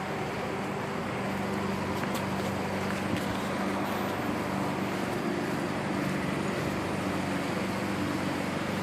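A steady low motor hum with a constant pitch over a background hiss.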